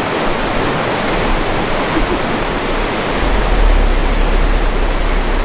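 Mountain stream water rushing steadily, a loud even hiss; a deeper low rumble joins it about three seconds in.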